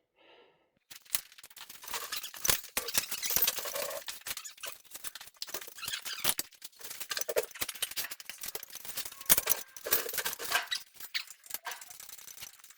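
Irregular squeaks with many metallic clicks and rattles as the engine and its lifting gear are worked into place in the truck's frame, starting after about a second of near silence.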